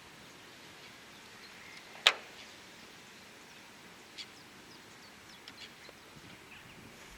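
A single sharp knock about two seconds in, over faint steady outdoor background noise, followed by a softer tick and a few faint short chirps.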